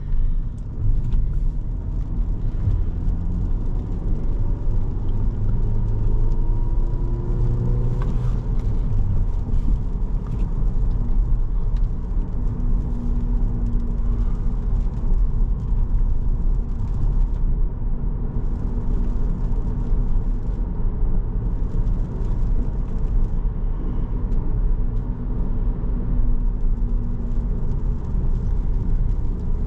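Inside the cabin of a 2017 Volkswagen Jetta SE, its engine and road noise while driving; the engine note climbs through the first several seconds, then settles into a steady cruise with a constant low rumble.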